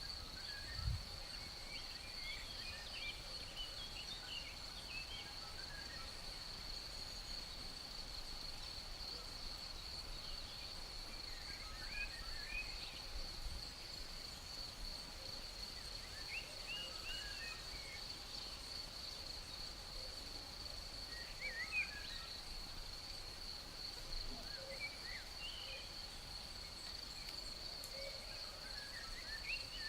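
Insects keep up a steady, unbroken high trill, with birds giving short chirps every few seconds. There is a soft low bump about a second in.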